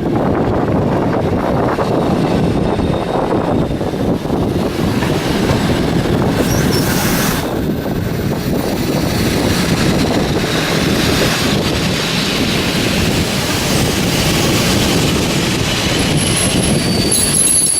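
Passenger train running past on the rails, a steady loud rumble of wheels and carriages. High-pitched wheel squeal comes in near the end.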